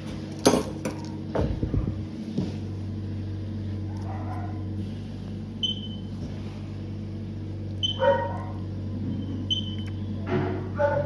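Dogs barking and yelping now and then, with a few sharp clicks about half a second in, over a steady low hum.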